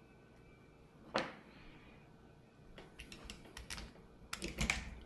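Light scattered clicks and taps of small hard parts and tools being handled: one sharp click about a second in, then a quick run of clicks and taps near the end.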